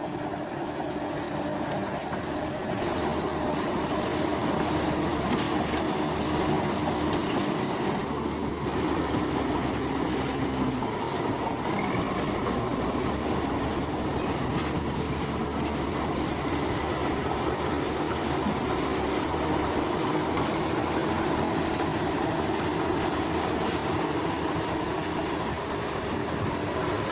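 Komatsu crawler bulldozer working steadily, its diesel engine running under a metallic squeal and clatter from its steel tracks.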